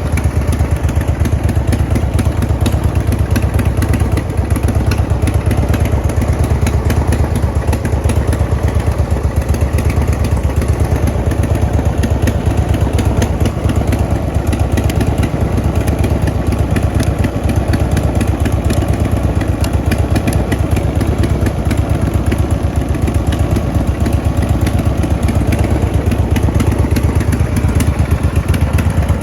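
Harley-Davidson Road Glide's Twin Cam 96 V-twin running steadily at idle through Vance & Hines aftermarket mufflers, a continuous low rumble of even exhaust pulses.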